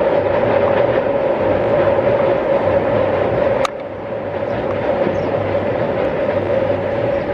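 Train running, a steady rumble with a constant hum. A sharp click about three and a half seconds in, after which the sound is a little quieter.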